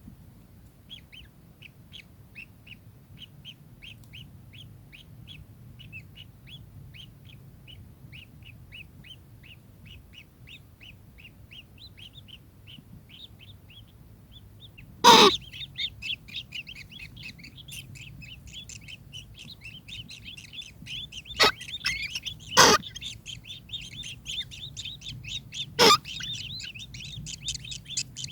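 Kingfisher calling in a fast run of short, sharp repeated notes, about three a second, growing denser and louder about halfway through. Four loud sharp knocks cut in over the second half.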